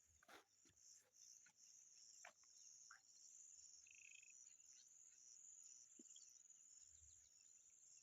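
Faint, steady high-pitched insect trill, with a few scattered soft clicks.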